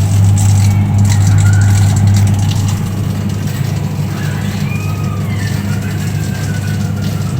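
Midea single-tub washing machine running on a test cycle: its motor gives a steady low hum, a little louder for the first few seconds.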